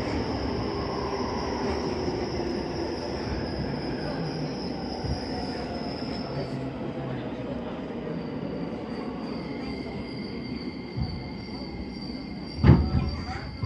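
Electric commuter train running and slowing, heard from on board: steady running noise with a high, steady wheel squeal and a motor whine that slowly falls in pitch. A short burst of loud knocks comes about a second before the end.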